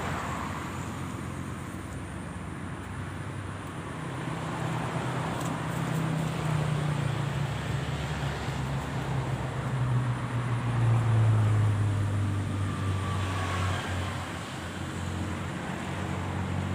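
A motor vehicle's engine passing by over steady traffic noise: its low hum grows louder and drops in pitch as it goes past, loudest about two-thirds of the way through, then fades.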